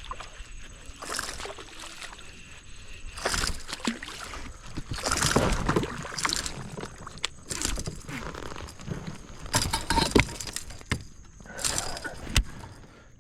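Water splashing and sloshing in irregular bursts at the side of a kayak, with rattles of gear and a sharp click near the end, as a hooked bass is landed.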